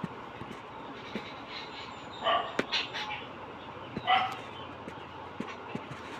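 Two short animal calls about two seconds apart, each lasting about half a second, with faint scattered clicks between them.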